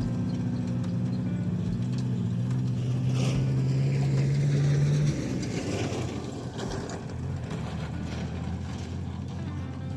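An engine running steadily at idle, cutting off abruptly about five seconds in. Lower-level mechanical noise follows.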